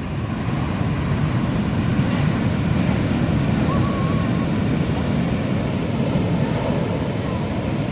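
Atlantic Ocean surf washing in on the shore: a steady, even rush of breaking waves.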